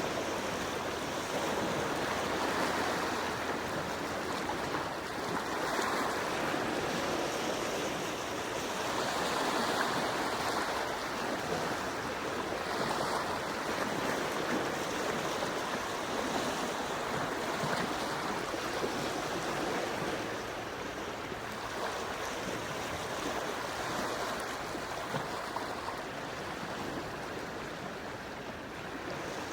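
Gentle sea waves lapping and washing ashore, a steady rush that swells and eases every few seconds.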